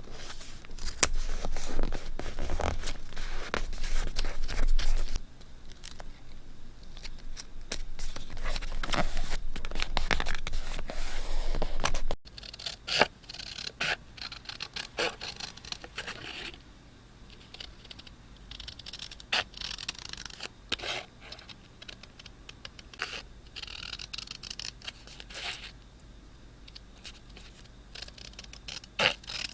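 Paper being handled for scrapbooking: scraping and rustling strokes, loudest for about the first twelve seconds, then after an abrupt break quieter, scattered rustles and light taps.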